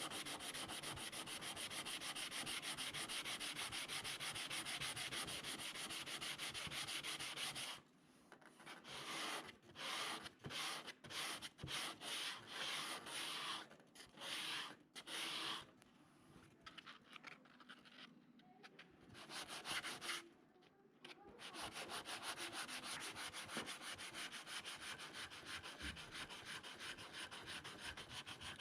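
Sanding on an FRP (fibreglass) repair to a car bumper. The rasping runs steadily, breaks into short stop-start passes from about 8 s to about 21 s, then runs steadily again.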